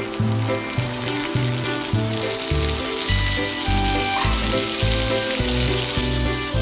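Octopus sizzling on a hot volcanic rock, a steady crackling hiss, under background music with a pulsing bass line.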